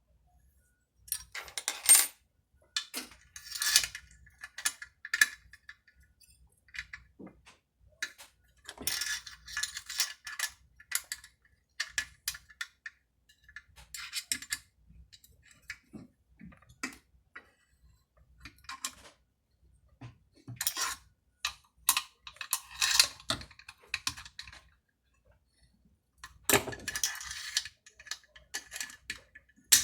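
Hand tools and small metal chainsaw parts clinking and clattering irregularly as they are handled and set down during reassembly, with louder clusters of clatter now and then.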